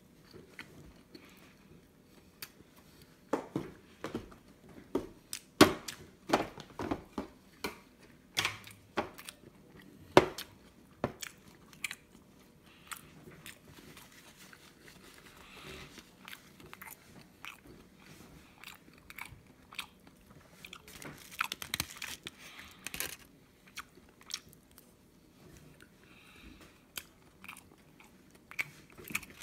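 A person chewing a mouthful of rice burger close to the microphone: irregular wet mouth clicks and smacks that come in bunches, thickest in the first ten seconds or so and again briefly a little past the twenty-second mark, with a quieter stretch between.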